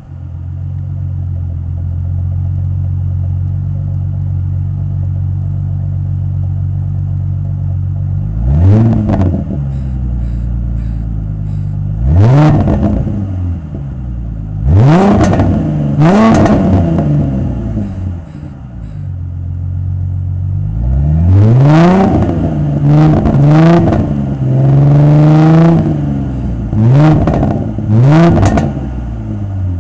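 2007 Ford Mustang's 4.0-litre V6 through a Flowmaster original 40 series exhaust, heard from outside the car: idling steadily, then from about eight seconds in revved in about nine quick blips, each rising and dropping back to idle, with one held longer past the midpoint.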